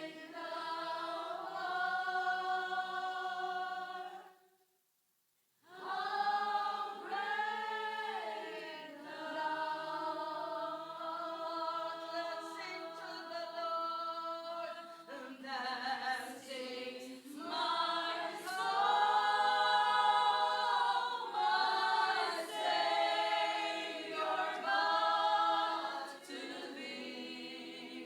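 A group of voices singing a worship song together, with no clear instruments. The sound cuts out completely for about a second, a little over four seconds in, then the singing resumes.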